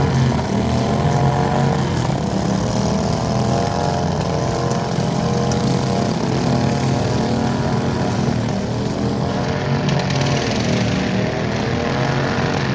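Small garden-tractor engine running hard and steadily, its pitch wavering and dipping briefly a few times.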